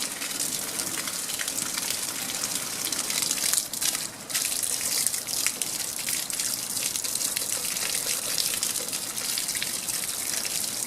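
Water gushing from a garden hose with no nozzle, sprayed onto an outdoor projection screen; the flow dips briefly about four seconds in.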